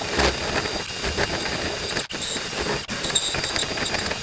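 Power drill running a step bit, boring through wood framing, with a steady motor whine and two brief pauses about two and three seconds in.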